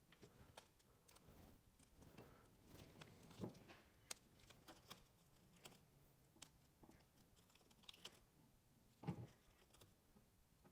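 Faint scattered clicks and light taps of hands fitting adhesive-backed foam rings onto the bolt holes of a metal compressor mounting bracket, with two slightly louder knocks, one about a third of the way in and one near the end.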